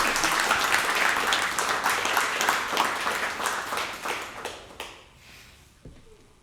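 A small audience applauding and cheering, which dies away over the last couple of seconds.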